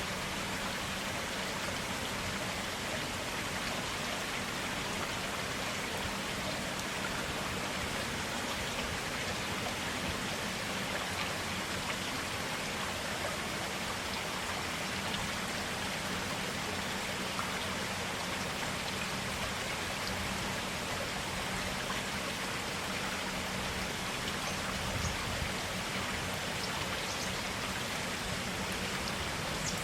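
Clear stream water flowing steadily, an even rush of water with a few faint high ticks near the end.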